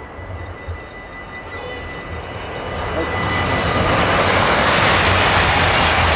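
Thalys high-speed train approaching and passing, its rush of noise growing steadily louder and holding at full strength from about four seconds in. A thin steady whistle sounds over it in the first few seconds.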